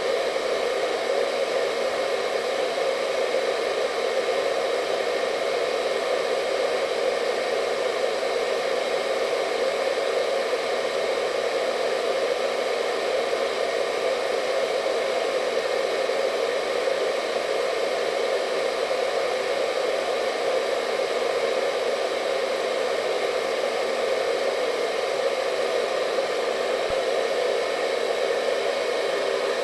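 Hair dryer running continuously: a steady airflow rush with a hum and faint whine that never changes.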